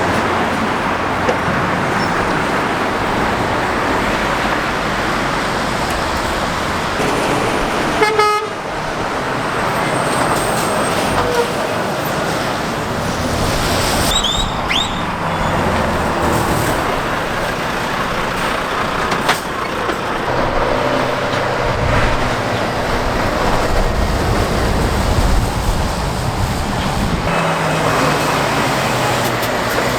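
Lorries and cars passing at speed on a busy main road, a continuous rush of engine and tyre noise. A short horn toot sounds about eight seconds in.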